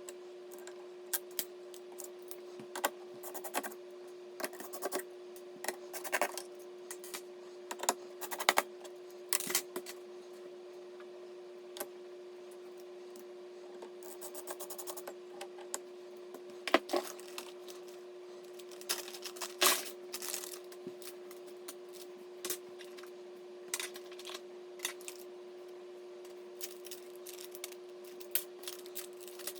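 Small hard computer parts being handled and fitted: irregular clicks, taps and light scrapes, with a steady hum underneath.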